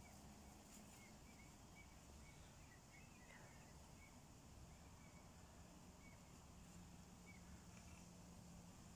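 Near silence outdoors, with faint, short bird chirps scattered through it over a low steady hum.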